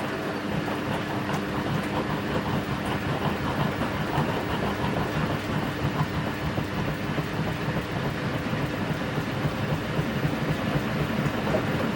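Front-loading washing machine mid-wash: the drum turning, with laundry tumbling and water sloshing steadily over a faint motor hum.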